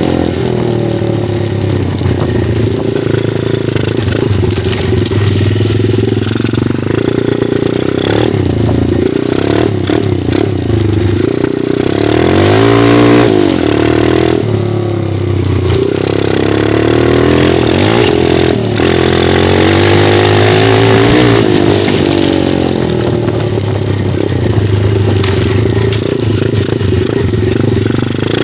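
A Honda-based 125cc dirt bike engine being ridden, its revs rising and falling again and again as the throttle is opened and closed.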